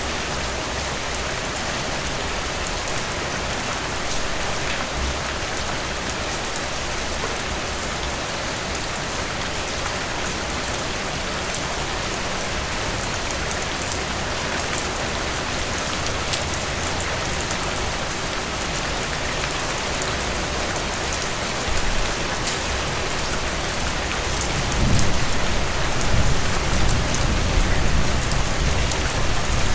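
Steady rainfall: an even hiss of rain with scattered ticks of single drops. About 25 seconds in, a low rumble comes up underneath and the sound grows louder.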